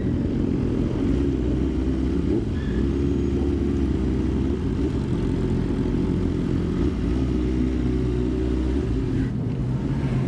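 Motorcycle engine running steadily at cruising speed, heard from on the bike, its pitch shifting a little now and then with the throttle.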